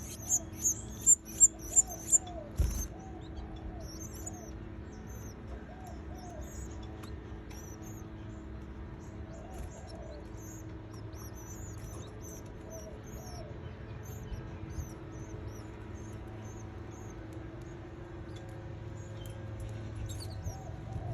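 Canary chicks cheeping: a loud run of rapid, high chirps for the first few seconds, cut off by a single knock. Softer, scattered chirps follow, with a lower call repeating underneath and a steady low hum throughout.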